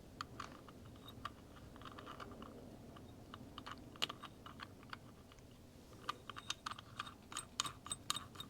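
Light, irregular metallic clicks and ticks of small clutch parts being handled as the clutch nut is fitted onto the shaft splines by hand, busiest near the end, with one sharper click about four seconds in.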